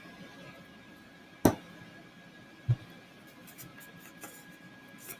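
Kitchen handling sounds while chicken is being seasoned: a sharp knock about a second and a half in, a duller thump just over a second later, then a few faint light ticks as the seasoning container is handled.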